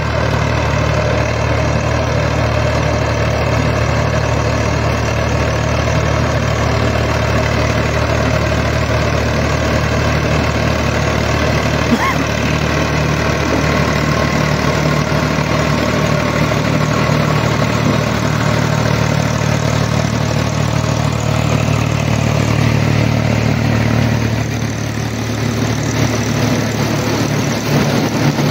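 Massey Ferguson 253 tractor's diesel engine running steadily under load, powering a SIP Tornado 80 pull-type corn picker, with the picker's machinery noise mixed in. The engine eases slightly for a moment near the end.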